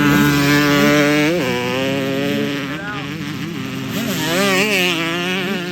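Several two-stroke motocross bikes racing past, their engines revving up and down through the gears, with pitches rising and falling against each other and surges about a second in and again near the end.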